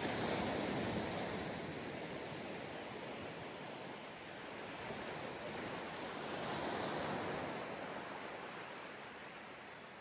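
Ocean surf washing onto a sandy beach: a wave breaks right at the start and another rush swells about six to seven seconds in, the sound easing off toward the end.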